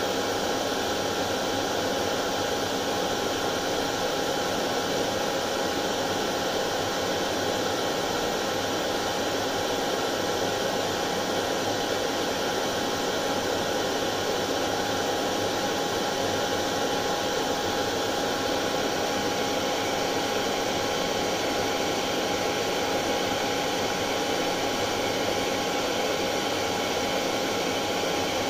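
Hair dryer running steadily: an even rushing hiss of blown air with a faint steady hum.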